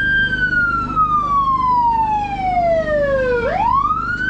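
Emergency vehicle siren wailing: the pitch climbs quickly, slides slowly down over about three seconds, then climbs again near the end.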